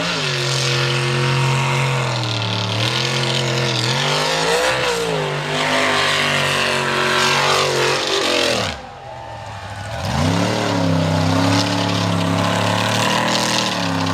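Mega truck engine revving hard in a mud bog, its pitch rising and falling. About eight and a half seconds in the revs drop away sharply and the sound dips, then the engine revs back up about a second later.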